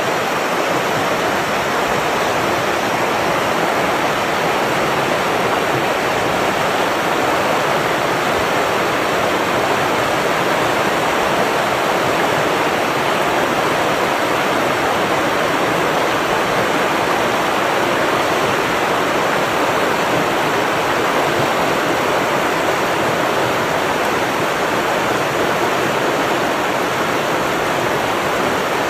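Rushing water, a steady unbroken roar with no breaks or changes.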